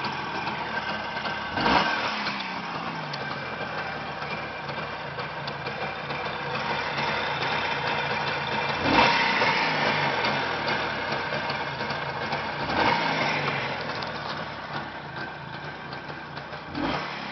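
A Jawa motorcycle's newly fitted two-stroke engine idling, blipped with the throttle four times. Each short rev falls back to idle.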